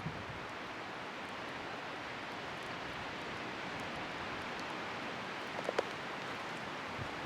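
Wood bonfire burning in a gusty wind: a steady rushing noise, with a quick cluster of sharp crackles near the end.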